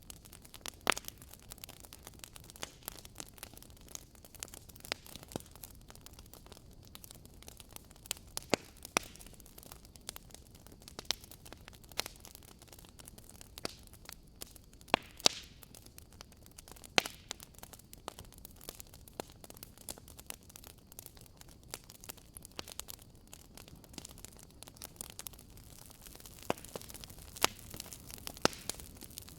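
Wood campfire crackling: irregular sharp pops and snaps over a soft steady hiss, with a few louder pops scattered through.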